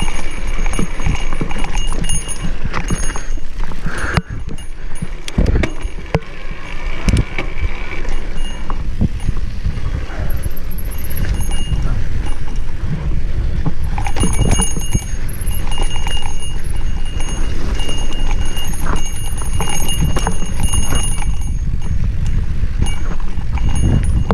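Mountain bike clattering and rattling down a rough single-track trail, with many sharp knocks, over a constant low rumble of wind buffeting the microphone.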